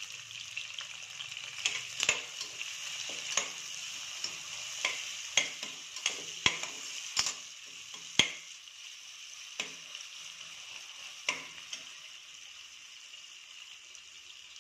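Chopped onions, green chillies and ginger sizzling in hot oil in a stainless steel pressure cooker, stirred with a slotted steel ladle that clinks against the pot about once a second. The clinks stop about twelve seconds in while the sizzling goes on.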